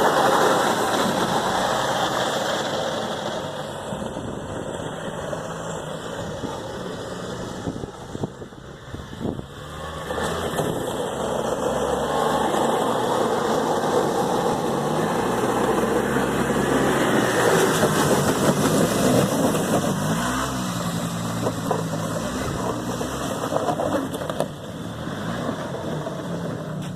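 A motor vehicle's engine running under way, its pitch rising and falling as it speeds up and slows, with a drop in loudness about eight seconds in.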